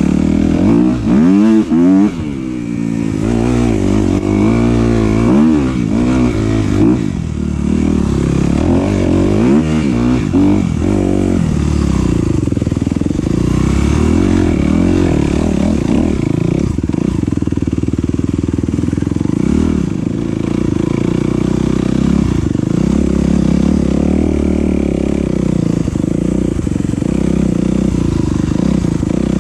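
Enduro dirt bike engine revving up and down hard and repeatedly for the first ten seconds or so, then running at a steadier pitch with smaller rises and falls.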